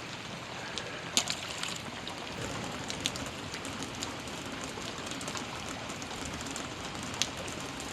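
Steady rain falling, with a few sharp ticks of single drops landing close by.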